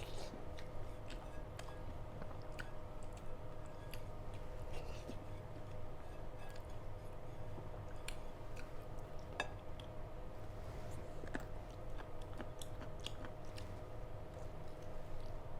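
A person eating close to the microphone: scattered soft clicks and smacks of chewing food, over a steady low hum.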